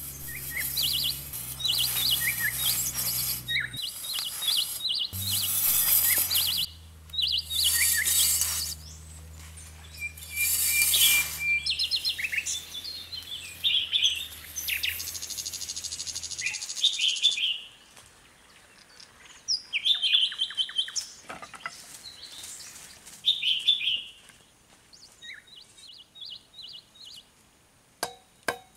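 Small birds chirping and tweeting throughout, with several loud scraping bursts in the first dozen seconds as a steel shovel blade cuts and scrapes through sandy soil.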